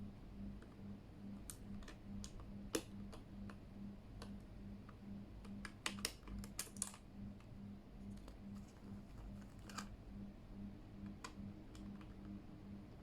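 Keychron K8 mechanical keyboard giving scattered sharp key clicks, with a quick cluster of clacks about six seconds in. A faint low hum pulses evenly underneath.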